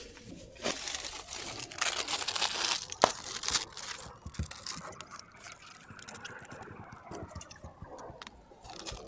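Rustling, crinkling and scraping of gear being handled, loudest from about two to three and a half seconds in, with a sharp click near three seconds, then quieter rustling.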